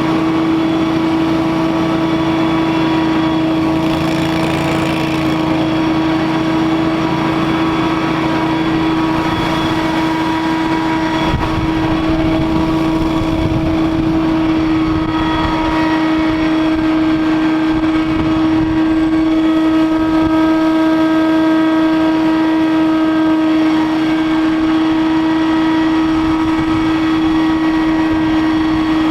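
Scag Windstorm engine-driven stand-on leaf blower running steadily, a constant loud pitched hum from its engine and fan.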